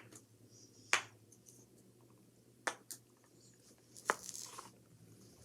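A few sharp, separate clicks or taps, about five spread over several seconds, two of them close together in the middle, over a faint steady hum.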